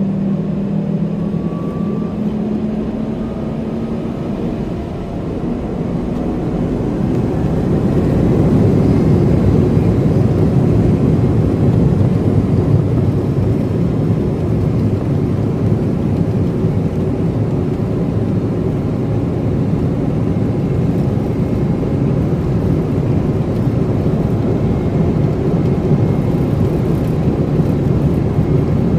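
Embraer E195 cabin noise on the takeoff run: the turbofan engines spool up with faint rising whines in the first few seconds. From about five seconds in the sound grows louder, into a steady rush of engine and air noise.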